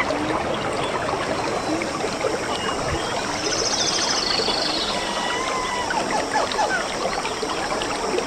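A stream running steadily, with birds calling over it: short chirps and whistles, and a fast high trill about halfway through.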